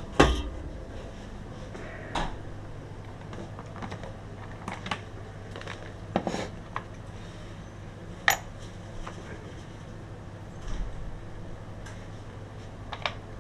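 Scattered clinks and knocks of small metal objects being handled, the loudest right at the start, over a steady low hum.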